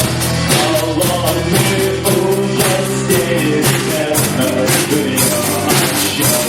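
Live rock band playing an instrumental passage: electric guitars and bass over a drum kit keeping a steady beat.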